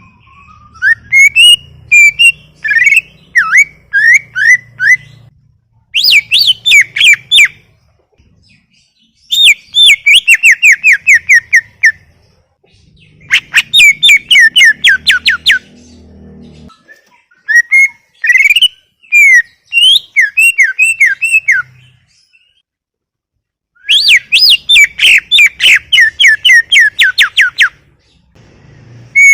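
Greater green leafbird (cucak ijo) singing loudly and continuously in phrases of rapid, sharply falling whistled notes. There are about six phrases of a few seconds each, with short pauses between them.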